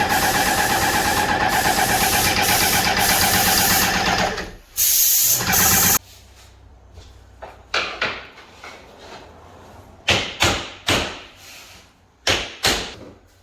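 A small motor, like a power tool's, runs steadily at a fixed pitch and stops about four and a half seconds in. After a brief louder burst, a series of sharp knocks follows, several of them close together.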